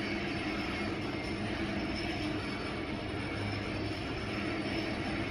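Kone elevator car travelling down its shaft, a steady rumbling ride noise with a constant low hum and no change through the whole stretch.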